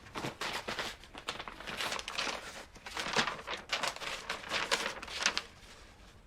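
Paper or plastic packaging being crinkled and torn open by hand in irregular rustling strokes, which die away about five and a half seconds in.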